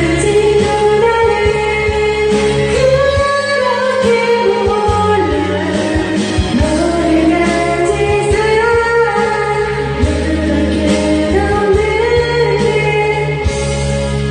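A voice singing a Korean pop song along to a karaoke backing track.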